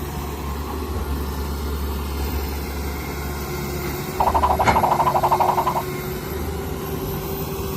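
Vehicle engine idling with a steady low hum. About four seconds in, a rapid buzzing rattle cuts in for about a second and a half and is the loudest part.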